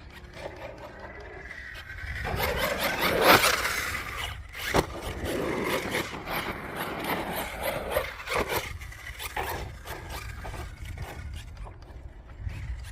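Team Corally Kagama RC stunt truck running on a dirt track: electric motor whine and tyres scrabbling and scraping over dirt. There is a loud hit about three seconds in and a sharp knock near five seconds.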